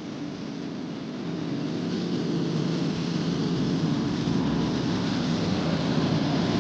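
Steady cabin drone of a small private jet in flight: engine and rushing-air noise with a low hum, fading in and growing louder over the first few seconds.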